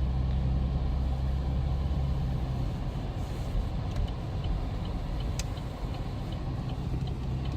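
Chevrolet Camaro's engine running at low speed, heard from inside the cabin, its hum easing off a few seconds in. In the second half a faint light ticking comes about twice a second, with one sharp click.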